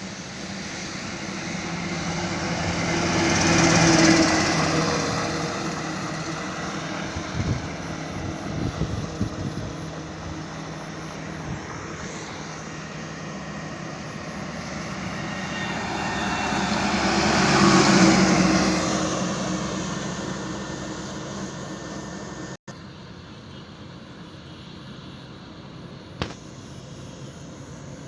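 Road traffic: two vehicles pass by one after the other, each swelling to a peak and fading away, the first about four seconds in and the second about eighteen seconds in. A steadier engine hum follows after a brief cut in the sound near the end.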